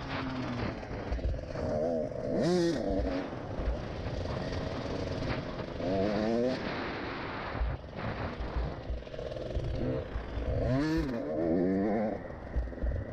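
Small motocross bike engine revving up and down as it is ridden round a track, its pitch rising and falling several times with the throttle.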